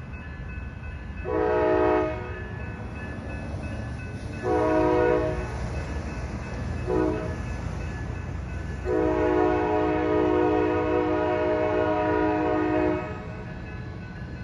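Locomotive air horn sounding the grade-crossing signal: two long blasts, one short, then a long blast held about four seconds, over a steady low rumble.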